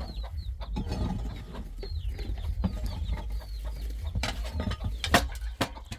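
Chickens clucking, with a few sharp knocks about four and five seconds in over a steady low rumble.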